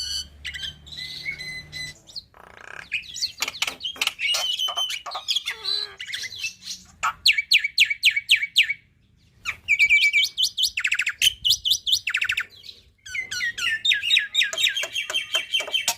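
Black-winged myna (jalak putih) singing a varied, full song: whistles and chatter mixed with fast runs of sharp repeated notes. It breaks off briefly about nine seconds in and again near thirteen seconds, then ends in a quick rattling run.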